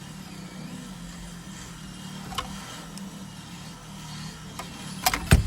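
A car engine idling with a steady low hum, then a few sharp knocks and clicks near the end.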